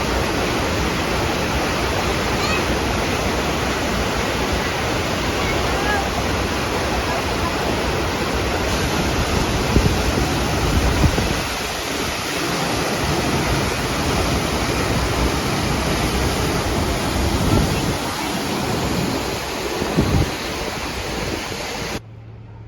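Steady rush of wind and water noise on a tour boat moving across a lake, cutting off suddenly near the end.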